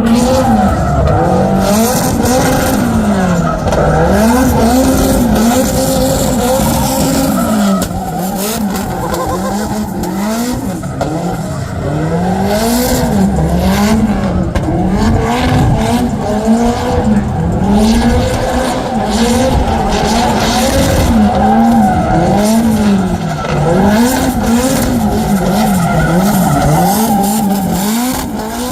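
Drift car engine revving hard, its pitch rising and falling about once a second as the driver works the throttle, with tyres squealing and skidding on the track.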